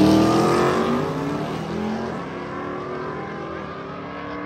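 Race vehicle's engine at full throttle, rising in pitch at the start and then fading steadily as it pulls away down the drag strip.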